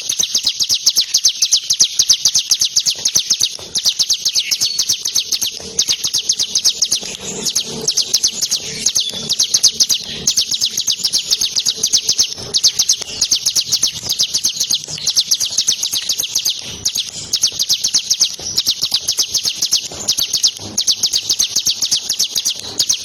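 Ciblek (bar-winged prinia) singing continuously in its fast rapid-fire 'shooting' song. Long runs of high, quickly repeated chirps are broken only by brief pauses.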